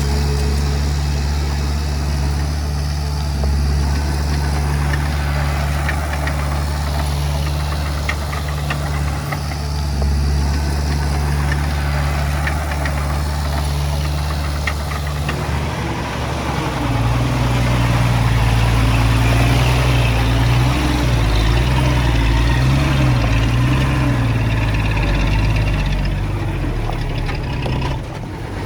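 Komatsu D20P bulldozer's diesel engine running steadily, its note shifting about halfway through to a higher, wavering pitch as the throttle and load change, then dropping off just before the end.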